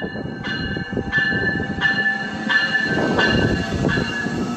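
Via Rail passenger train running past with a low rumble, under a bell ringing steadily, about three strokes every two seconds.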